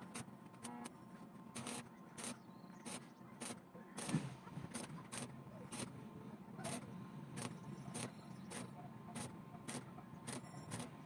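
A string of sharp, short taps or clicks, irregularly spaced at about two a second, over a faint steady hum.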